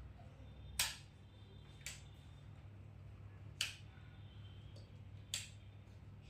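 Four sharp clicks at uneven intervals over a low steady hum.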